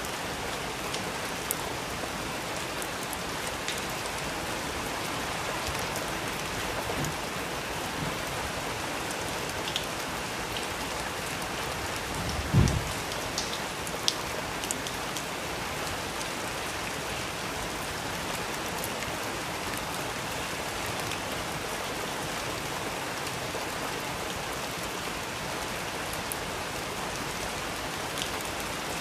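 Steady rain, with a few faint sharp clicks and a single low thump a little before halfway.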